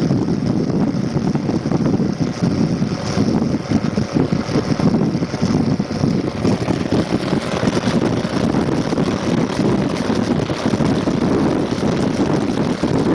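Wind buffeting the microphone: a loud, gusty low rumble with no clear tone.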